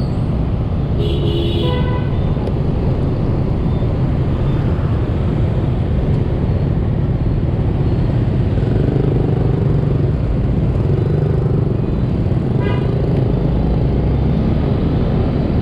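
Steady wind and engine rumble from riding a small motor scooter through city traffic. A vehicle horn toots briefly about a second in, and a short rapid run of beeps comes near the end.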